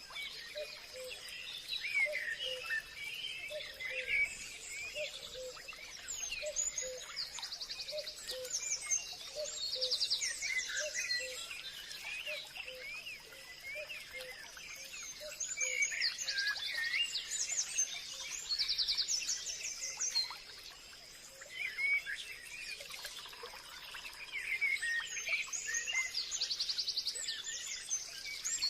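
Forest dawn-chorus-style ambience: many birds chirping and calling, with several fast high trills and a steady high insect hum underneath. A low note repeats about twice a second through the first half.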